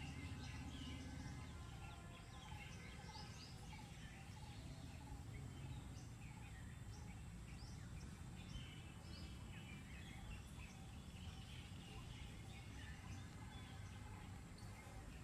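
Several birds chirping and calling in short, quick notes, faint over a low, steady background rumble.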